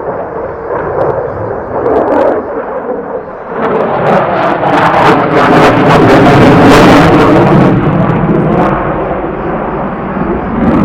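Aircraft flying past, growing louder from about three and a half seconds in to a peak around six to seven seconds, then easing off a little, with faint gliding tones in its noise.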